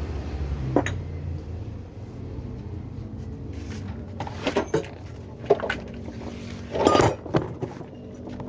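A low hum fades out over the first two seconds, then come several sharp metallic clanks and knocks of parts being handled on the bench, the loudest about seven seconds in.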